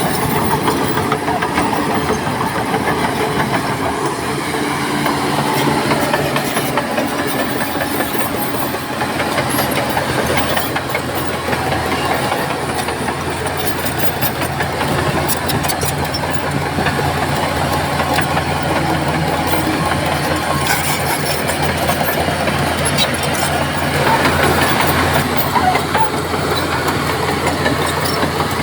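Crawler bulldozer's diesel engine running steadily, with scattered metallic clanks and clicks.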